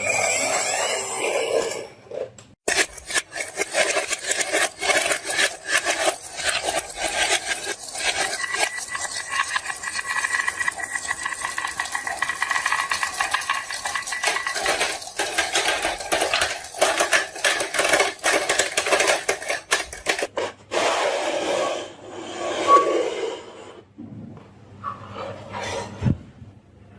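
Marbles rolling and clattering down a wooden HABA marble run, a fast continuous rattle of small hard clicks that thins out about twenty-four seconds in.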